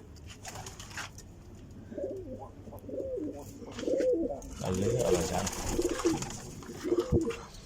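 Domestic pigeons cooing, a run of wavering low coos starting about two seconds in, with a brief rustle around the middle.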